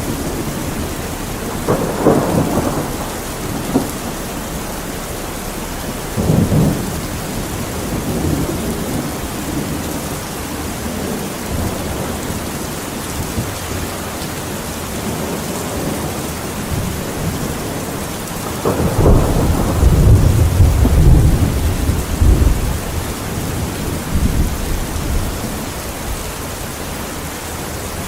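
Steady rain with thunder rolling over it: short rumbles a couple of seconds in and again about six seconds in, then a longer, louder rumble about two-thirds of the way through.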